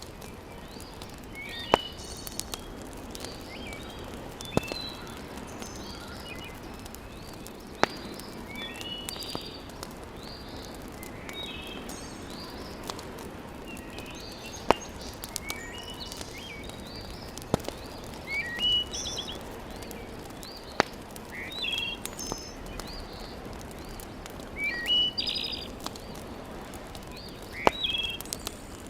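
Wood fire in a fireplace crackling, with a sharp pop every few seconds, while small birds chirp again and again in the background.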